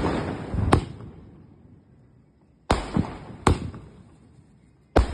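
A multi-shot aerial firework cake (about 120 shots) firing. There are about five sharp bangs at uneven spacing, each followed by a fading echoing rumble.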